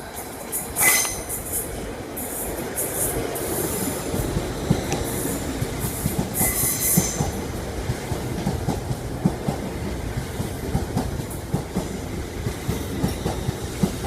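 LNER Class 801 Azuma train pulling away, its wheels squealing in high-pitched bursts over the first seven seconds above a steady rumble. The wheels then click more and more often as it gathers speed.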